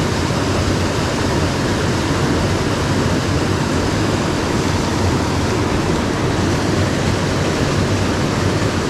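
Rushing water of a mountain stream, a loud, steady roar of whitewater with no break.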